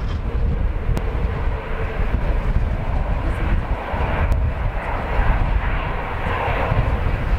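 Jet engine noise from a Boeing 787-9 Dreamliner passing, a steady rush. Strong wind buffets the microphone underneath, a gusty low rumble.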